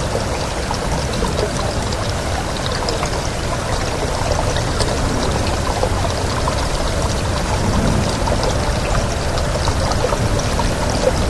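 Steady heavy rain with wind: a dense, even hiss of falling water scattered with small drop ticks, over a low rush.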